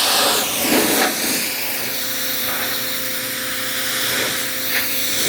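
Pressure washer spraying: a steady hiss of the water jet, changing a little in the first second as the spray moves, with a faint steady hum from the washer running under it.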